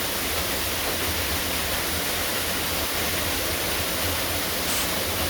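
Waterfall pouring close to the microphone: a steady, even rush of falling water with a low rumble underneath.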